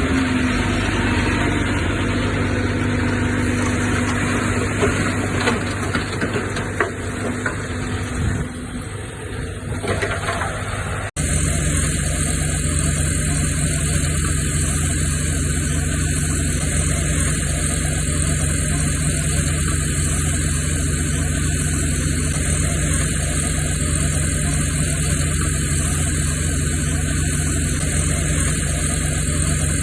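Diesel engines of heavy earthmoving machinery (a bulldozer and dump trucks) running at a landfill, with some scattered clanks at first; about eleven seconds in the sound changes abruptly to a steady, even engine drone.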